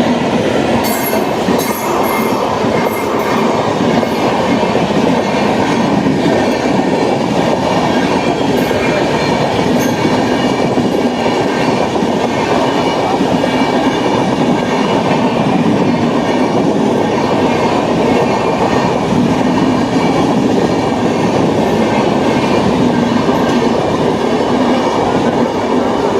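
Train rolling past on the rails: a steady, loud rumble of wheels on track, with a few sharp clicks in the first seconds and faint high ringing tones over it.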